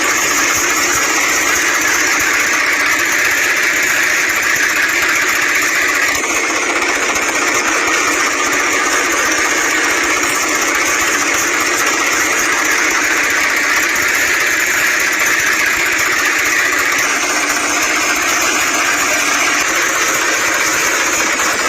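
Tractor engine running steadily at an even, unchanging pace, cutting in and out abruptly.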